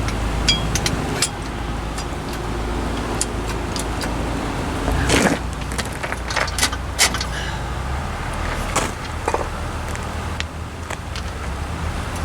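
Hand tools and metal parts clinking and knocking on truck axle hardware, with a longer metal scrape about five seconds in and another shorter one near nine seconds, over a steady low rumble.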